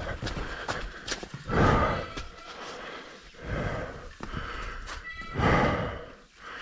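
Mountain bike being ridden over a wet, rooty trail: continual rattling and clicking, with two louder rushes of noise, one about a second and a half in and one near the end.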